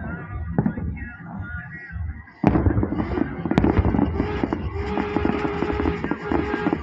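Fireworks and firecrackers crackling with many rapid pops; about two and a half seconds in they turn suddenly louder and denser, with a steady held tone underneath.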